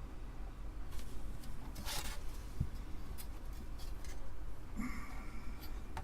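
Light handling noises from the Amiga 500 motherboard being moved about on the bench: a short brushing scrape about two seconds in, a soft knock soon after, and scattered light clicks, over a low steady hum.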